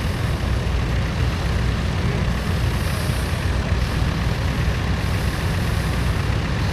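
Vintage tractor engine running steadily with a deep, even note.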